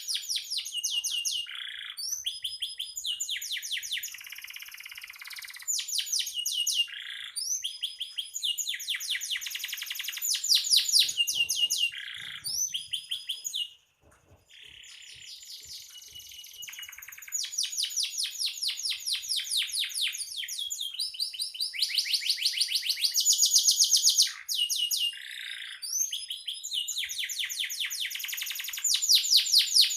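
Domestic canary singing in long, fast trills of rapidly repeated notes, broken by short pauses, with one brief near-silent gap about halfway through.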